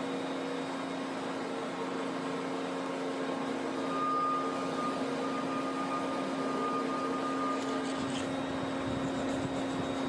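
Steady mechanical hum of a running machine, with a thin higher whine joining from about four to eight seconds in.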